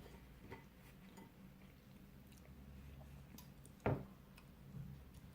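Quiet chewing of pizza, with scattered small mouth clicks and one sharper click about four seconds in, over a low steady hum.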